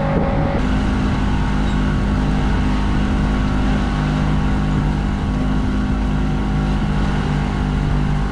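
Outboard motor of a MacGregor 26X powerboat running steadily at cruising speed: a constant, even drone over the rush of the hull through the water.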